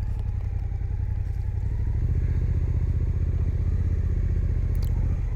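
Suzuki GSX-8S's parallel-twin engine running as the bike rides along, heard through a helmet microphone; the engine note grows a little louder about two seconds in.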